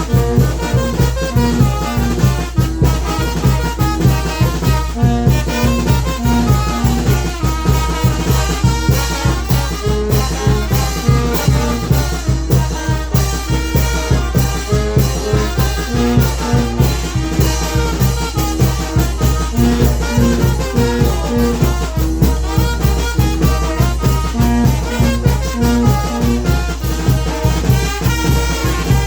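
Mexican banda de viento playing: trumpets and trombones carrying held melody notes over a steady beat.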